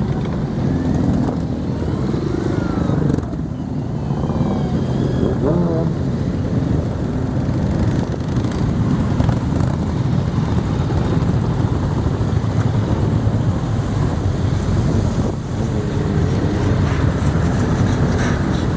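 Many motorcycle engines running together, with a few short revs in the first several seconds, and voices in the background.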